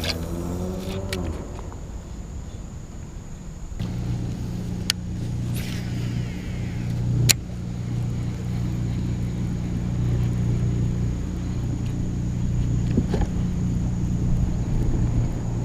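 Minn Kota 12-volt electric trolling motor on a kayak running steadily with a low hum, which steps up about four seconds in. Two sharp clicks come at about five and seven seconds in, the second the loudest thing heard.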